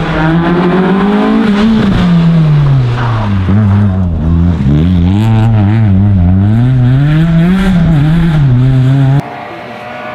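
Race car engine at high revs, its pitch climbing, dropping about two seconds in, then rising and falling several more times as the driver lifts and shifts through the gears. The sound cuts off suddenly about nine seconds in.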